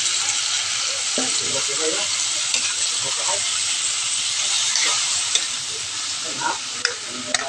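Chicken pieces with chayote and banana sizzling in a hot pan while a metal spatula stirs them, with a few sharp clinks of metal on the pan near the end.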